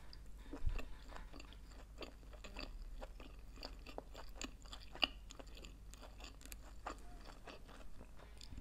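A person chewing a mouthful of vegetarian sushi roll: many small wet mouth clicks run on without a break. There is a louder thump about three-quarters of a second in and a sharp click at about five seconds.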